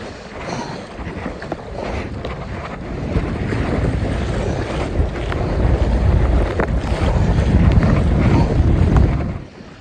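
Wind buffeting the microphone over rushing river water from a whitewater rapid. The low rumble builds from about three seconds in and drops away sharply near the end.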